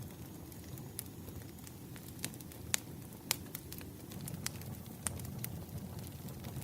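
Wood campfire crackling: irregular sharp pops and snaps, two louder ones around the middle, over the low steady rumble of the burning fire.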